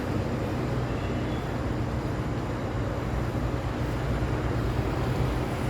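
City road traffic: a steady low rumble of vehicle engines and tyres, with no single event standing out.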